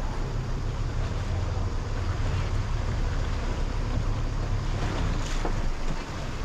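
Motorboat running on the sea: a steady low engine rumble mixed with wind buffeting the microphone and water washing past the hull.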